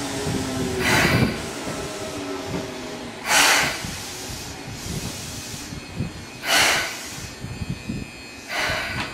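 Seibu 2000-series electric train drawing to a stop at the platform: a low tone falls in pitch as it halts. Then come four short, sharp hisses of released compressed air from the train's air system.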